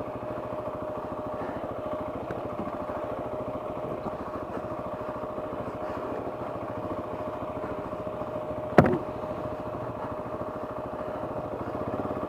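KTM 690's single-cylinder engine running steadily, with one sharp loud knock about nine seconds in.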